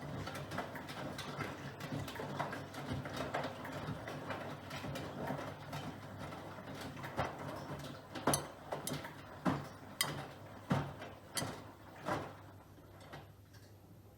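Miele Professional PW 6065 Plus washing machine in its wash cycle: the drum turns with a low motor hum under a dense swishing of laundry. About halfway through comes a run of sharp knocks roughly every two-thirds of a second, and the sound drops quieter near the end.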